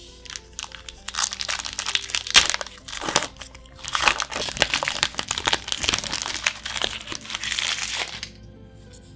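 Foil booster pack wrapper crinkling and being crumpled by hand, starting about a second in and stopping a little after eight seconds. Soft background music plays underneath.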